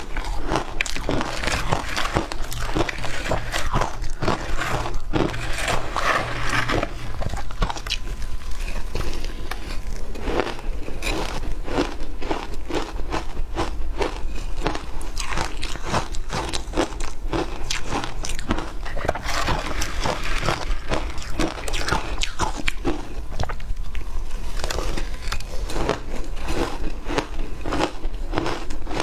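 Close-up crunching and chewing of frozen matcha shaved ice: a dense, irregular run of crisp crunches, many a second, with no break.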